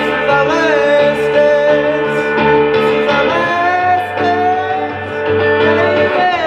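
Live band playing a rock song: guitar notes, some of them bending in pitch, over drums with occasional cymbal hits.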